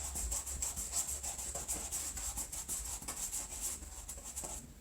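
Paintbrush loaded with yellow paint scrubbing back and forth on cardboard in quick, even strokes, about four to five a second, stopping shortly before the end.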